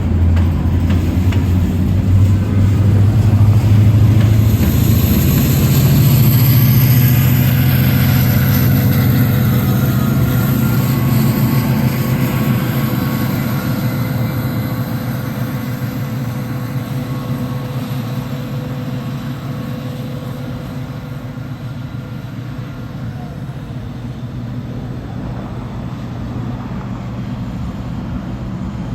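Union Pacific diesel locomotive engine running loud, its low note stepping up about four seconds in, then growing gradually fainter over the second half.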